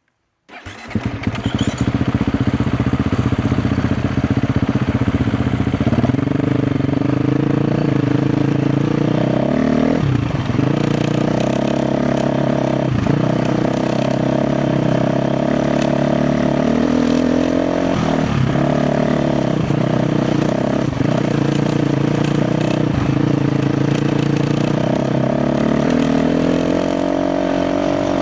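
KTM 350 XC-F dirt bike's single-cylinder four-stroke engine, coming in suddenly about half a second in and then running under load, its revs rising and falling with the throttle, with several brief drops in revs, and clatter from the ride.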